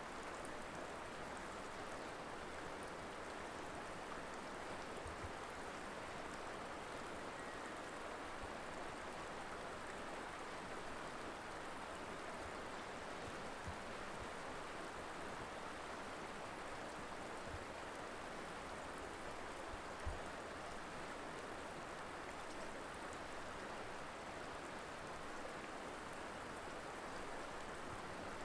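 River water flowing steadily, a continuous rushing noise, with a few faint low thumps now and then.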